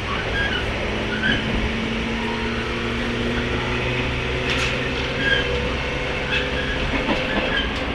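Running sound of a 103 series electric train heard from inside motor car MoHa 102-449: a steady hum from the MT55 traction motors over wheel-and-rail rumble, with a few clicks from the wheels near the middle.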